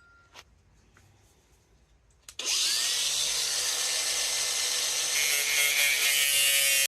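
A power saw starts about two seconds in. Its motor whine rises quickly to a steady high pitch, and it runs loudly, cutting flooring plank, until it stops abruptly near the end.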